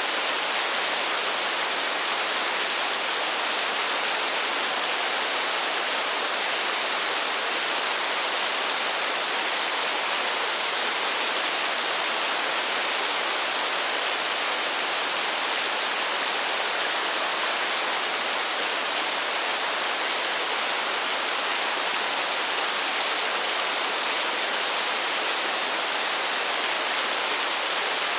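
Steady rain: an even, unchanging hiss of falling water with no single drops standing out.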